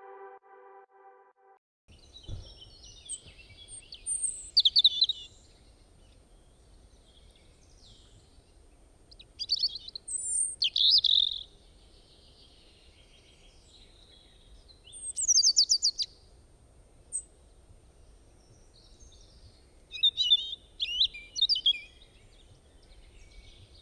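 Wild birds singing and calling, several groups of high chirps and trills a few seconds apart, over a faint low rumble.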